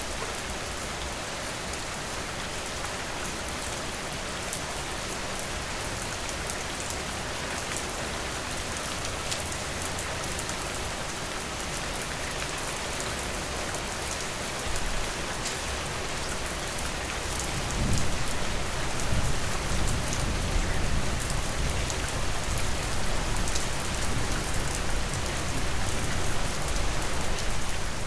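Steady rain falling on surfaces, an even hiss with fine scattered drop ticks. A low rumble comes in about two thirds of the way through and stays under the rain.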